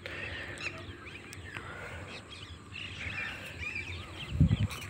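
Birds chirping and calling in open farmland, faint and scattered, over a low outdoor background. A brief low rumble from wind or handling on the phone's microphone comes near the end.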